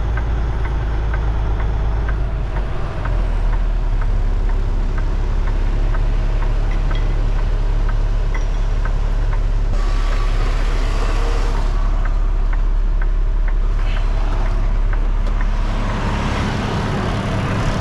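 Semi-truck diesel engine running steadily at low speed, with a faint regular ticking about twice a second and rushes of hiss about halfway through and again near the end.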